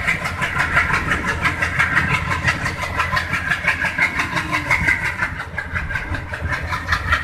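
A moving goods train heard from on board, its wheels and wagons rattling in a rapid, even rhythm over a low rumble.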